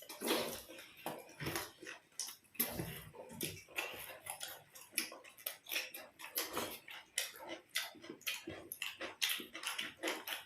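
Close-up eating sounds: chewing with wet lip smacks and mouth clicks, irregular and several a second, as lachha paratha with curry is eaten.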